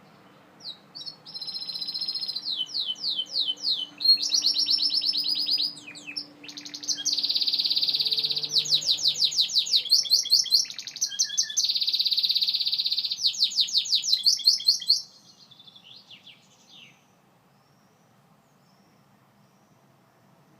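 Gloster canary singing a long song of fast trills and rolls, runs of rapidly repeated high notes alternating with held buzzing phrases. The song stops about three-quarters of the way through.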